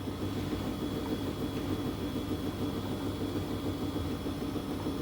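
Tower washing machine on its spin cycle, its drum turning with an unbalanced load that leaves the machine a bit shaky. There is a steady motor hum with a faint high whine.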